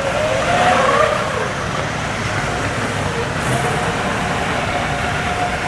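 Vehicle engine running steadily under a constant rumble of outdoor noise, with a thin steady high tone over it.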